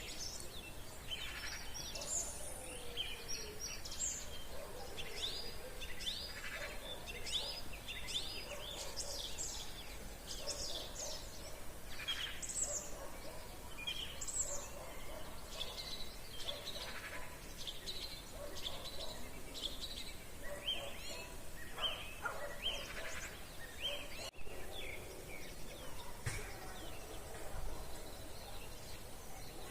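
Evening chorus of many songbirds singing at once, a dense mix of short chirps, trills and whistles that carries on without a break.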